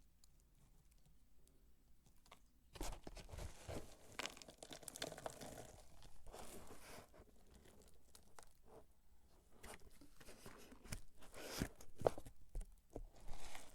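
Dry soap being crumbled and crushed, a dense crackling crunch that starts about three seconds in, with a few sharper cracks near the end.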